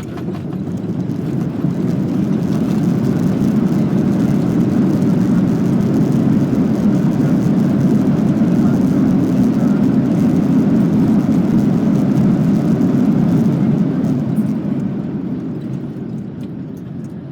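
Airbus A330-300's engines in reverse thrust on the landing roll, heard from the cabin: a deep rushing roar that swells over the first few seconds, holds, and dies away near the end as the aircraft slows.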